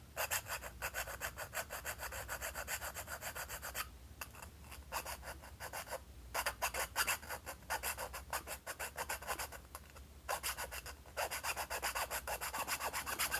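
Needle file rasping back and forth in quick short strokes, squaring up the corner of a square hole cut in a tube. The strokes come in runs with brief pauses about four, six and ten seconds in.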